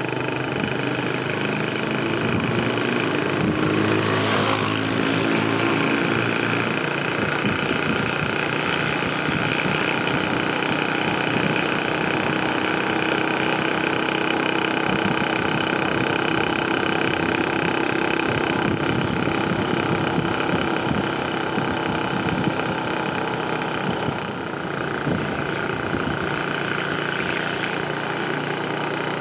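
Motor vehicle engine running steadily, its pitch rising briefly about four seconds in.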